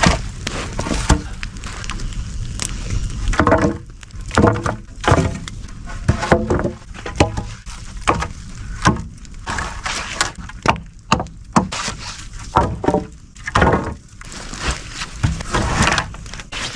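Irregular wooden knocks, cracks and scrapes of logs and branches being handled and broken, a stroke or two every second or so.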